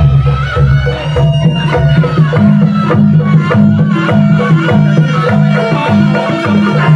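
Loud traditional Indonesian folk music with drums and wood-block-like percussion under pitched melodic instruments, playing steadily.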